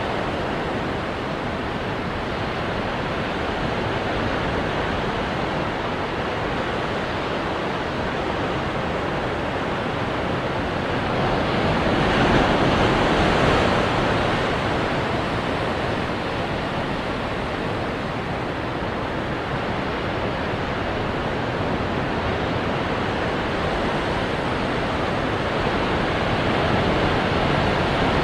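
Ocean surf breaking on rocks: a steady wash of waves, swelling louder once about halfway through.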